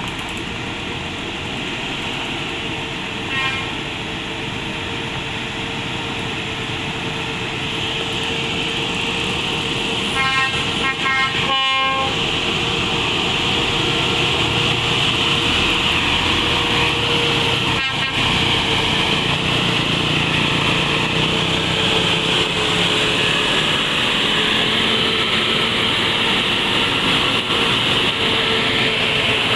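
Hino container truck's diesel engine labouring on a steep climb, a steady drone that grows louder over the first half. Short vehicle horn toots cut in about three seconds in, several times around ten to twelve seconds, and once near eighteen seconds.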